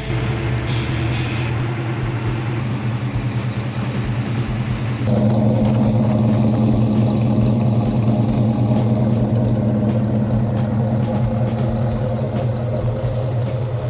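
Dodge muscle car's engine idling steadily with a fast, even pulse; about five seconds in it becomes louder and fuller, then holds steady.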